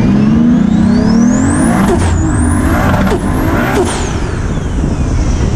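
Turbocharged 2JZ-GTE straight-six in a 900 hp SC300 pulling hard under boost, heard from inside the cabin. Revs climb with a rising turbo whistle for about two seconds, then break sharply three times, around two, three and nearly four seconds in, as the whistle swoops down at each quick gear change.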